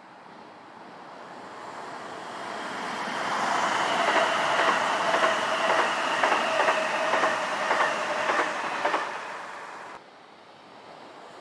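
A train passing close by. It grows louder over several seconds, then its wheels clatter over the track in a run of sharp clicks under a steady whine, and the sound cuts off suddenly near the end.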